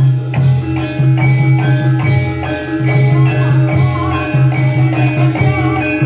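Javanese gamelan music for a reog and kuda lumping dance: struck metal keyed instruments play quick runs of pitched notes over a deep sustained low note that breaks and restarts about once a second, with drumming.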